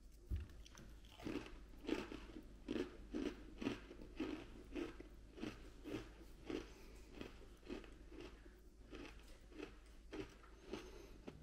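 A crunchy Oreo Churro sandwich cookie being chewed close up: a crisp snap about half a second in, then a steady rhythm of crunching chews, about two to three a second, growing softer over the last few seconds.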